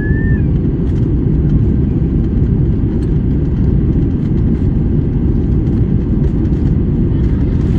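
Steady low rumble of airliner cabin noise during the descent to landing: engine and airflow noise heard from inside the cabin.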